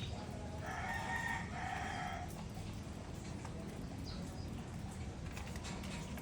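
A rooster crowing once, a call of nearly two seconds starting about half a second in, over a steady low rumble.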